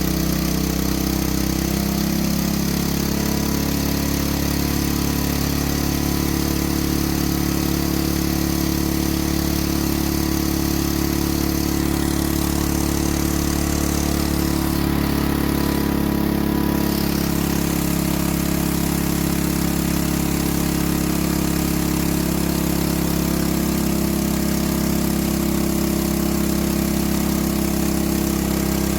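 An engine idling steadily, its low hum shifting slightly about two seconds in.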